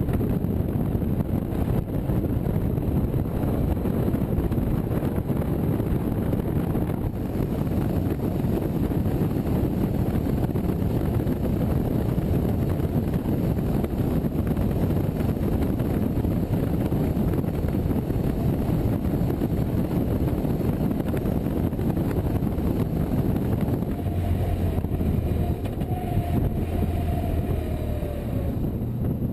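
Steady wind and road noise of a motorcycle being ridden, with the engine running under it. Near the end, a faint falling tone is heard as the engine note drops.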